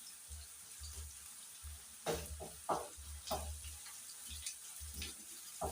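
Onions, ginger and garlic frying in oil and being stirred: a faint sizzle with a few short scrapes and knocks against the pan, several between about two and three and a half seconds in and another near the end.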